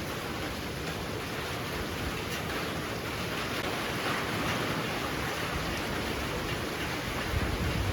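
Super heavy rain pouring steadily, driven by strong wind that swells about halfway through. There is a brief low rumble near the end.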